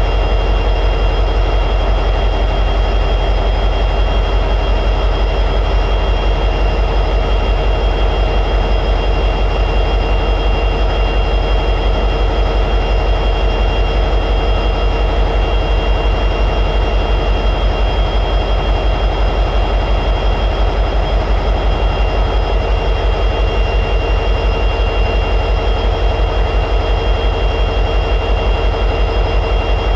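EMD 710G3B 16-cylinder two-stroke diesel prime mover of an SD60E locomotive running steadily at high idle, a deep, fast-pulsing rumble with a steady high-pitched whine over it.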